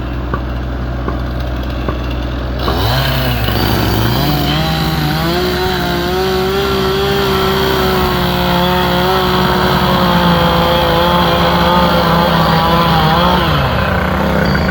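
Gas-powered chainsaw revving up about three seconds in and held at high speed while cutting timber, then dropping back toward idle near the end.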